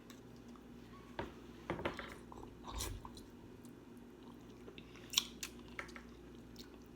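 Close-up chewing and biting while eating snow crab and shrimp, with a few scattered crunches and clicks from the shells. Under it runs the faint steady hum of a loud clothes dryer.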